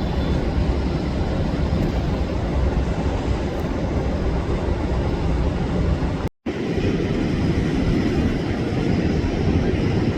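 Steady jet engine rumble of a four-engine Boeing 747-400 taking off, loud and low-pitched, with a brief cut to silence about six seconds in.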